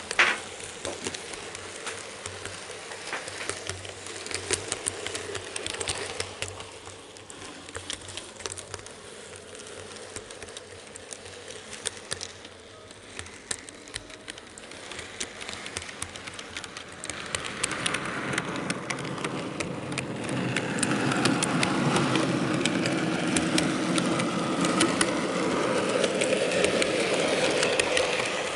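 N gauge model freight train running, heard from an onboard camera car: wheels rolling and clicking over the rail joints. The rolling noise grows louder about two-thirds of the way in.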